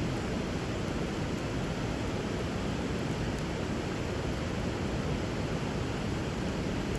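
River water rushing steadily, an even unbroken noise, with a few faint crackles from the wood fire burning over it.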